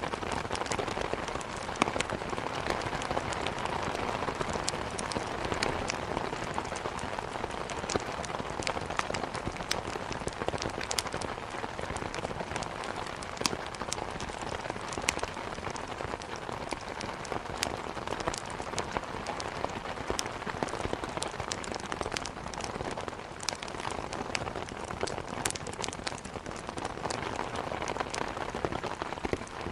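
Steady heavy rain hitting a window, with a wood fire crackling: sharp, irregular pops scattered throughout.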